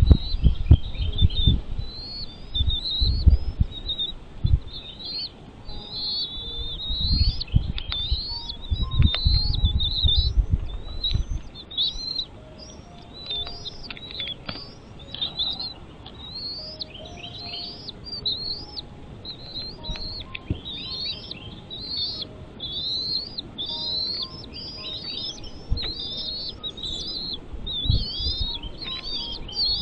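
Birds chirping in a quick, continuous series of short, high, sweeping chirps, several a second, over low rumbling thumps that are louder in the first half.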